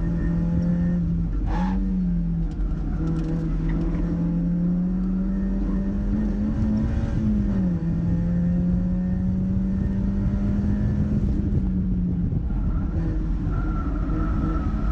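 Mazda MX-5's four-cylinder engine running hard on track, its revs climbing slowly for several seconds, then dropping sharply about seven and a half seconds in and holding steady afterwards.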